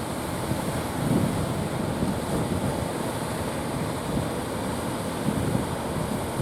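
Strong wind buffeting the microphone over the rush of surf, in uneven gusts.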